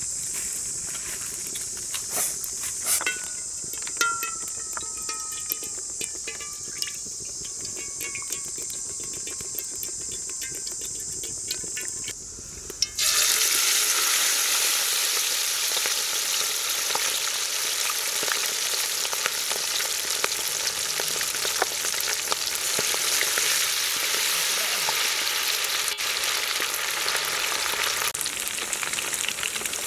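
Food frying in hot oil: a steady sizzle with scattered crackles. About 13 seconds in it turns abruptly into a much louder, dense sizzle that carries on to the end.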